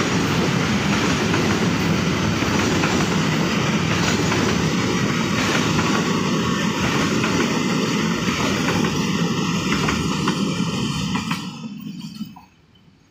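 Train passing on the track: loud, steady noise of wheels rolling on the rails, which fades quickly and cuts off about a second before the end.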